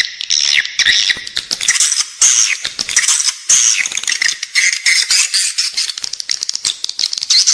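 Edible-nest swiftlets twittering in a dense, continuous chatter of high chirps and rapid clicking trills. This is a lure recording of a swiftlet colony, meant to be played inside a swiftlet-farming building to draw the birds in to nest.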